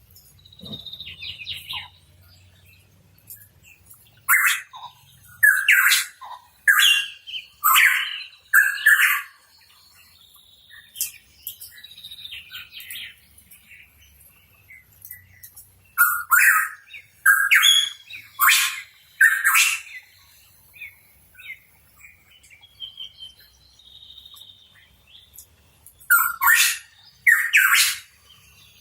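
Pitohui calling: three bouts of loud, short calls in quick series, about five notes in each of the first two bouts and two in the last, with softer whistled notes in between.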